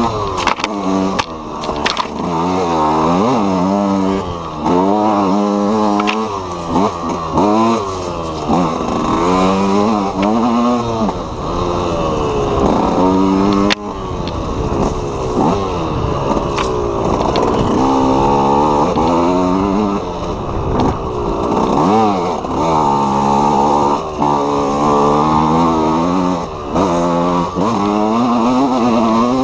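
KTM EXC 125's single-cylinder two-stroke engine revving up and down again and again under the rider's throttle, its pitch rising and falling in quick sweeps. A couple of sharp knocks break through.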